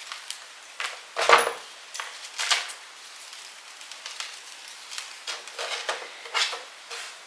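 Garden snippers clipping the root ends off dahlia tubers: a few scattered sharp clicks and knocks, with the strongest about a second in and a cluster of lighter ones near the end.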